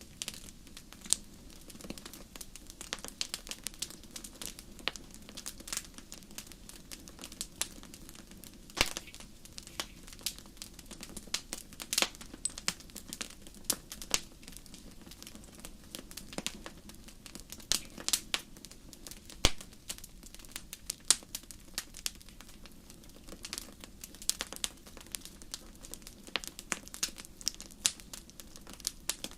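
Wood fire burning in a fireplace, crackling steadily with frequent irregular sharp pops and snaps over a soft low hiss.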